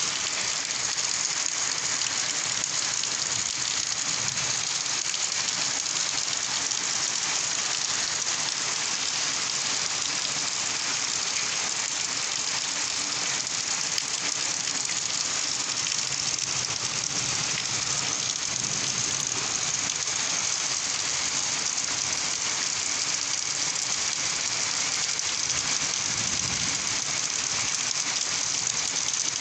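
Steady, heavy rain falling and pattering on surfaces during a kalbaishakhi (nor'wester) storm, an even hiss with no let-up.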